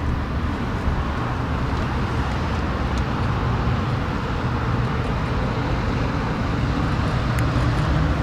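Steady low vehicle rumble with an even background hiss, like a car engine idling or road traffic, with no distinct events.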